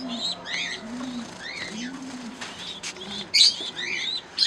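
Pigeons cooing, a low coo repeating about once a second and fading in the second half, with high chirps and squawks from small parrots in the same aviary.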